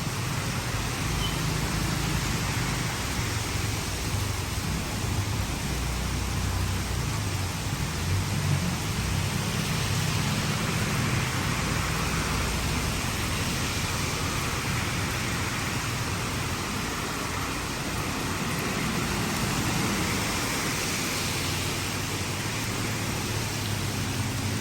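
Heavy rain pouring steadily, an even hiss, with a low rumble underneath that rises and falls.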